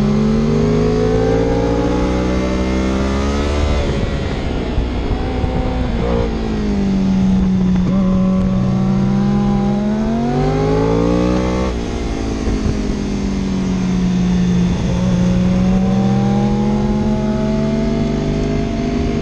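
A vehicle engine accelerating hard on a winding road: its note climbs in pitch, breaks off sharply about 4 seconds in and again near 12 seconds, then climbs again.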